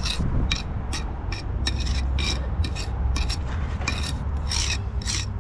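Steel pointing iron scraping and rubbing fresh mortar into the joints of engineering bricks, in short, irregular strokes about three a second.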